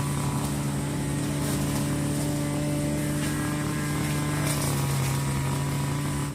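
Engine running steadily with a constant low hum and some hiss on top, cutting off suddenly at the end.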